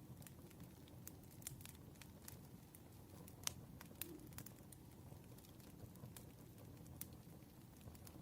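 Campfire burning: wood crackling with scattered sharp pops over a low, steady rumble of flame. The loudest pop comes about three and a half seconds in.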